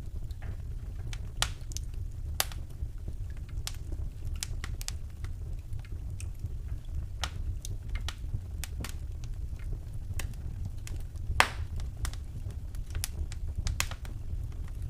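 Wood fire in a fireplace crackling, with irregular sharp pops and snaps over a steady low rumble; one louder pop about eleven seconds in.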